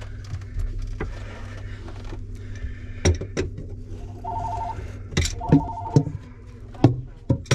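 Electronic telephone ringing: two short two-note trills about a second apart, among several sharp clicks and knocks.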